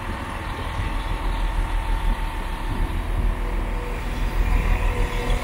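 Northern Class 195 diesel multiple unit arriving and drawing alongside: its underfloor diesel engines and wheels on the rails make a steady rumble, with a faint steady whine above it.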